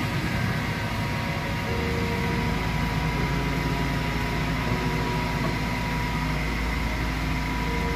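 Truck crane's engine running steadily, with a thin steady whine above the low hum.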